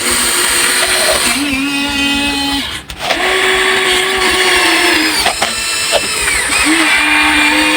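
Electric motors of a Huina 1593 RC model excavator whining as its arm and bucket work, in stretches of a second or two that break off and start again at a slightly different pitch.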